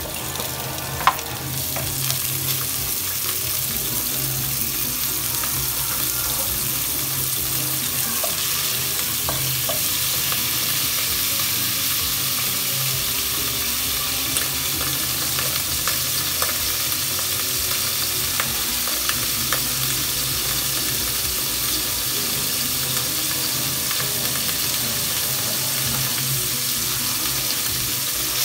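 Chopped onion and tomato frying in hot oil in a pot: a steady sizzle that builds over the first couple of seconds as the pieces go in, then holds while a wooden spatula stirs them. A single sharp knock comes about a second in.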